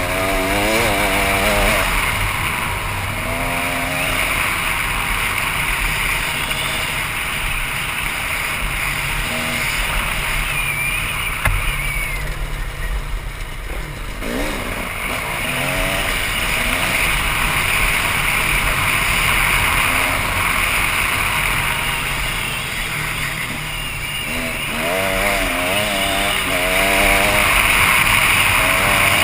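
KTM 300 EXC two-stroke single-cylinder dirt bike engine being ridden. The revs rise and fall in surges near the start, about halfway through and again near the end, over a steady rushing noise.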